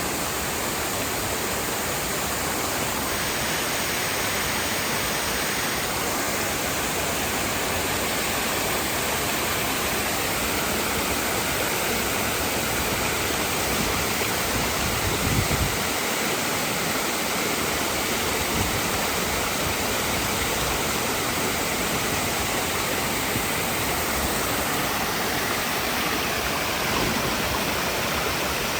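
Waterfall rushing in a steady, dense roar of falling water.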